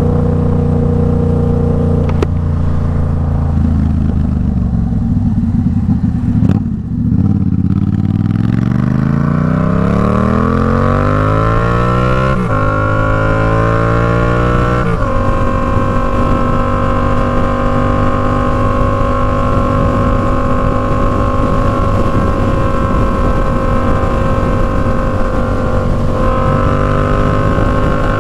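Yamaha MT-07 parallel-twin engine running through an Arashi aftermarket exhaust while the bike is ridden. The note falls away as the throttle closes, climbs through two upshifts, then holds steady at cruising speed, rising slightly near the end.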